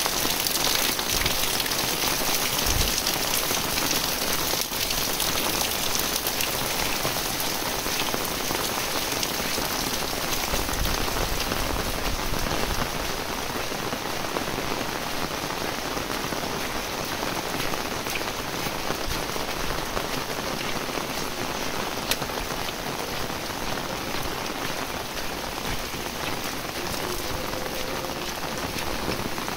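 Heavy rain falling steadily, an even hiss of rain on roofs and wet ground.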